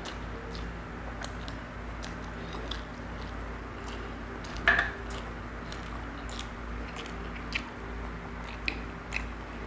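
Close-up eating sounds: a person chewing fried tilapia and rice, with wet mouth smacks and small clicks scattered throughout. One louder click comes about halfway through, and a few sharper ones come near the end.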